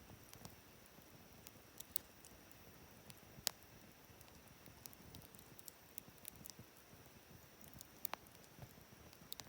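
Wood campfire crackling quietly: scattered sharp pops and snaps over a faint hiss, the loudest snap about three and a half seconds in.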